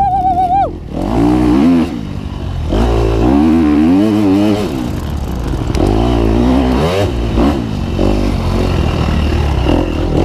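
Two-stroke KTM dirt bike engine revving up and down again and again as the bike is ridden hard over rough, rooty trail, with a brief high wavering tone at the very start.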